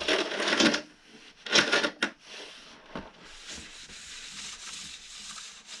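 Rustling and crumpling as the workbench is cleared up by hand: two loud bursts in the first two seconds, then a fainter steady rubbing hiss.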